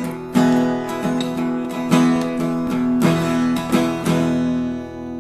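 Acoustic guitar strummed in a country rhythm, ending on a final chord left to ring and fade.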